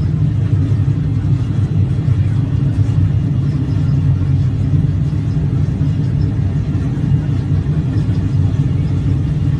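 Light aircraft's engine and propeller running with a steady low drone.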